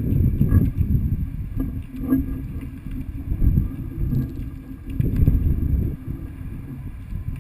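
Uneven rumbling wind and handling noise on a moving camera's microphone, swelling and fading.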